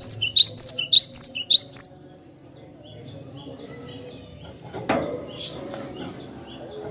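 Glatik batu (cinereous tit) singing: a loud series of about seven repeated high notes in the first two seconds, then a quieter run of fast chirps. A single knock sounds about five seconds in.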